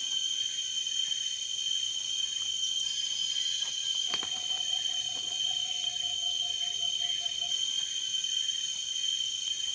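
Steady chorus of forest insects, many high sustained trilling tones layered together. A single sharp click sounds about four seconds in.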